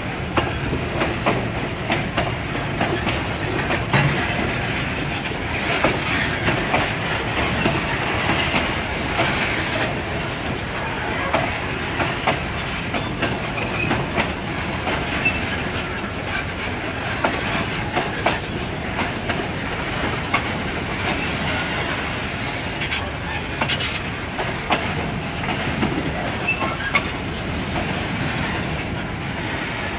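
Freight train rolling past: a steady noise of steel wheels on rail, broken by frequent irregular clicks and clacks.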